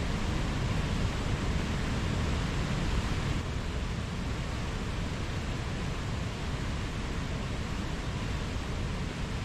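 Mountain stream flowing: a steady rush of water, turning slightly softer a few seconds in.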